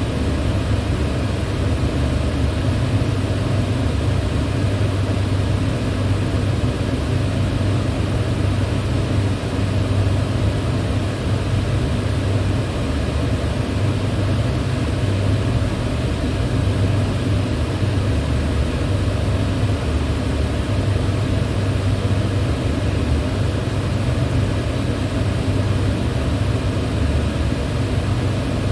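Electric fan running steadily: a low, even hum with the whoosh of moving air over it.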